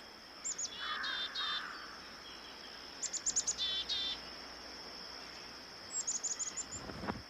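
Bird calls: three quick runs of short, high chirping notes, with a steady high insect drone like a cricket underneath.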